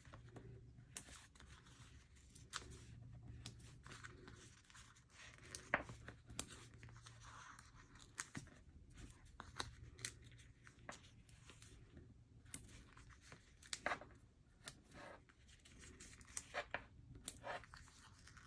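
Faint, scattered peeling and paper-handling sounds: foam adhesive dimensionals being pulled off their backing sheet and pressed onto cardstock, with small clicks and scratches over a low steady hum.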